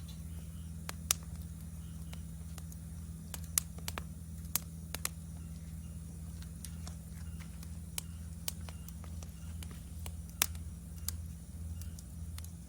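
Wood fire crackling in a fire-pit stand, with sharp irregular pops; the loudest come about a second in, about three and a half seconds in and about ten and a half seconds in. Under it runs a steady high insect trill and a steady low hum.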